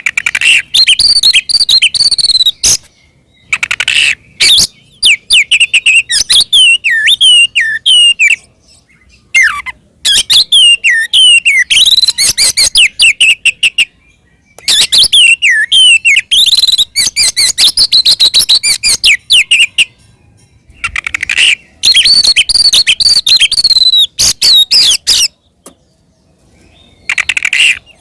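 Oriental magpie-robin (kacer) singing a loud, aggressive fighting song: phrases of varied clear whistles mixed with fast rattling, clicking trills, broken by short pauses about every four to six seconds.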